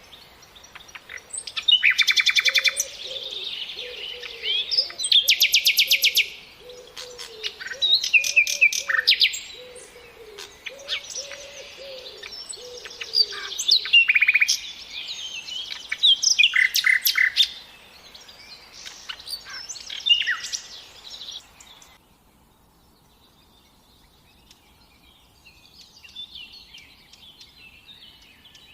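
Several songbirds singing and calling, with fast trills and sharp chirps overlapping, and a low wavering call repeated underneath for the first half. About two-thirds of the way in the song drops away to faint, more distant chirping.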